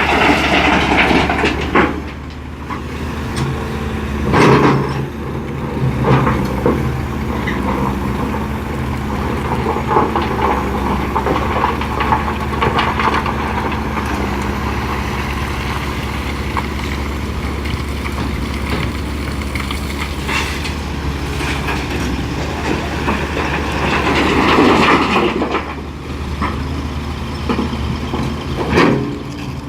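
Hitachi EX450LC-5 hydraulic excavator at work, its diesel engine running steadily, with louder passages of broad noise rising and falling from time to time.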